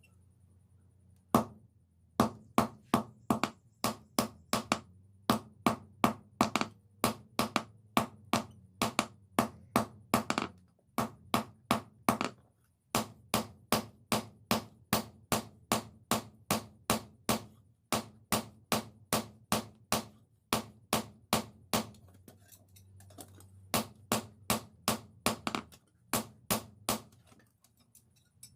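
Hand hammer striking metal on an anvil in steady runs of about three blows a second, each blow ringing briefly, with short pauses between runs.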